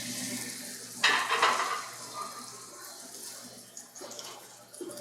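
Floured chicken pieces frying in hot clarified butter and olive oil in a pan: a steady sizzle, with a louder burst of sizzling about a second in that dies back down.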